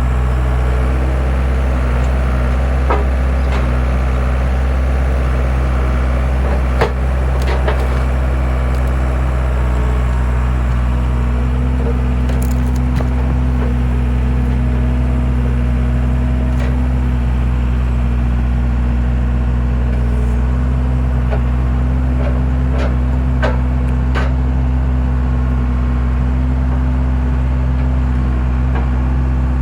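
Skid steer engine running steadily under load while its hydraulic log splitter forces through rounds, with scattered cracks and snaps of splitting wood.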